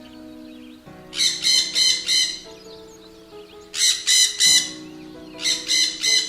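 Bird-call sound effect: three short bursts of quick, high-pitched chirping squawks, each of three or four notes, over soft background music.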